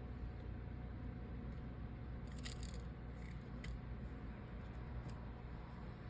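Faint light clicks and scrapes of small repair tools and phone parts being handled, with a cluster of clicks about two and a half seconds in and a couple of single ticks later, over a steady low hum.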